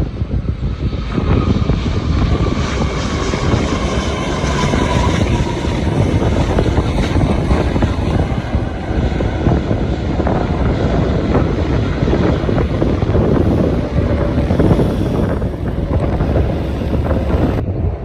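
Jet airliner passing low on arrival. Its engines give a loud, steady rumble, with a whine that falls in pitch over the first few seconds. The sound changes abruptly near the end.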